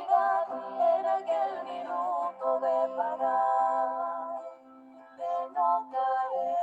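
Music: a voice singing a slow melody in held notes, with a brief pause a little after the middle.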